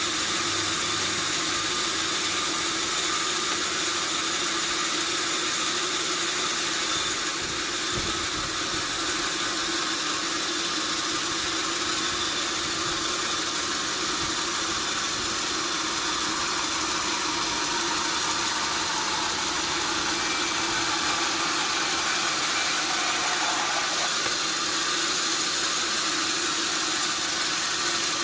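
Sawmill machinery running steadily: a constant, even noise, mostly a high hiss with a steady hum beneath it. In the second half a faint tone glides slowly downward.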